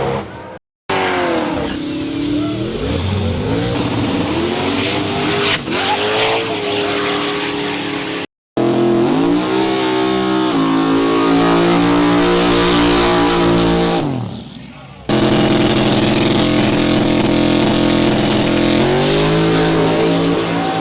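Loud high-performance car engines revving and accelerating hard, their pitch rising and falling with the throttle, across several short clips that cut off abruptly: about a second in, at about eight seconds, and again around fourteen seconds.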